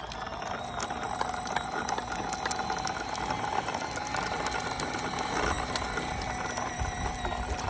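Small motor of a toddler's dirt bike running steadily with a high, even whine and light rattling ticks.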